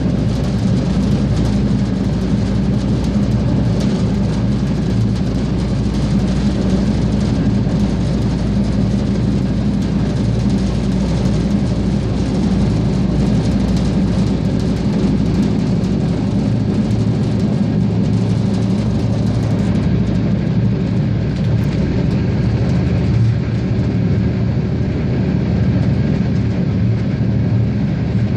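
Regio-Sprinter diesel railcar running along the line: a steady engine drone and wheel-on-rail running noise, with light ticks throughout.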